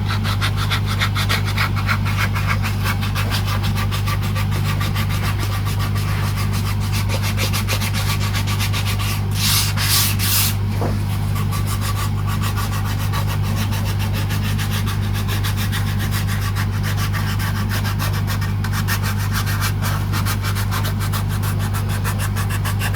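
Rapid, even back-and-forth rubbing on a Telecaster's wooden body as grain filler is worked by hand, over a steady electrical hum. A brief, louder hiss comes about ten seconds in.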